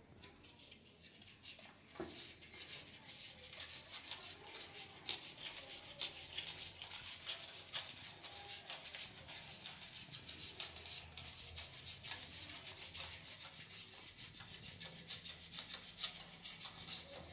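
Faint, irregular rubbing and scraping handling noises, with a sharper tick about two seconds in.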